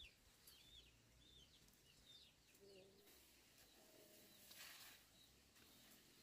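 Near silence, with a few faint bird chirps in the first second and a half and one brief rustle a little past the middle, probably the plastic netting being handled.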